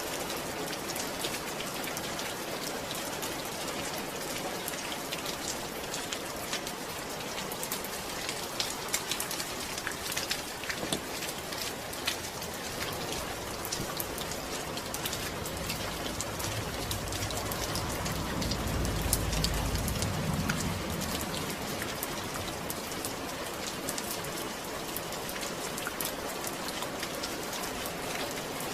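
Steady rain falling, with many fine drop ticks. A low rumble swells and fades about two-thirds of the way through.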